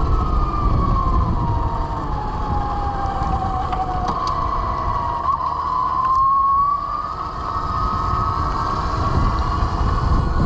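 Velimotors VMX12-F electric motorcycle's 12 kW motor whining under way. The whine falls slowly in pitch, then jumps up about four seconds in and climbs gently as it speeds up. Wind rumbles on the microphone throughout.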